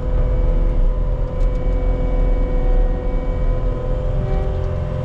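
Diesel engine of a piece of earthmoving equipment running steadily, with a steady whine above the rumble.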